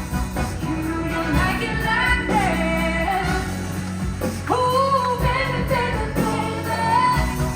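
Live pop music with singing and a steady band accompaniment, held sung notes that slide in pitch.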